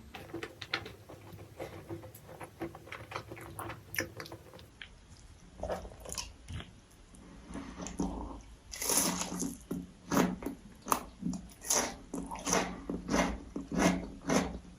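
Close-miked eating sounds: wet chewing and lip smacks, with soft clicks at first and then louder, regular strokes, about two a second, from the middle on.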